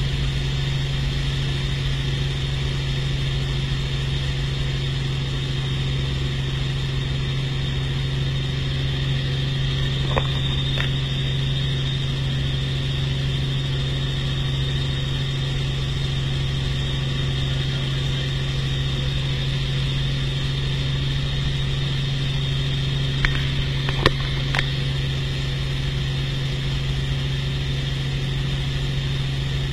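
Helicopter engine and rotor drone running steadily, a constant low hum with a high whine above it. A few faint clicks come about ten seconds in and again around twenty-four seconds.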